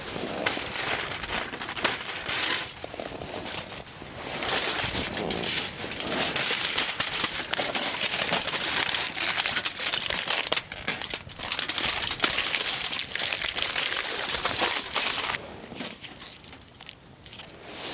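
Crinkly sheet material being crumpled and handled: patchy rustling for the first few seconds, then steady crinkling that stops about three seconds before the end.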